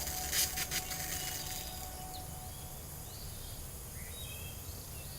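Music fading out over the first second or so, then a steady outdoor background with several short, high bird chirps.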